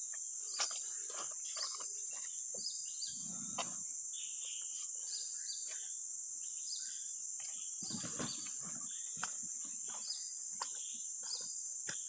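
Steady high-pitched drone of insects, crickets or cicadas, running without a break. Scattered short chirps and clicks sound over it, with a couple of brief low knocks or rustles.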